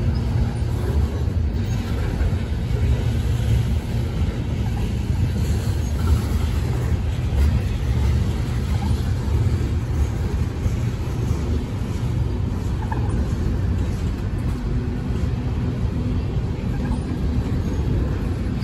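Freight cars of a long mixed freight train rolling past: a steady low rumble of steel wheels on the rails, with a few faint clicks.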